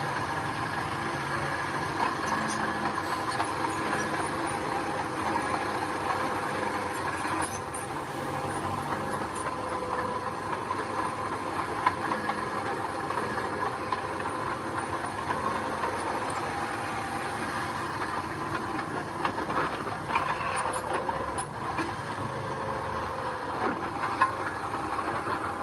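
Heavy earthmoving machinery running steadily, its engine note carrying a steady whine, with a few sharp clanks in the second half.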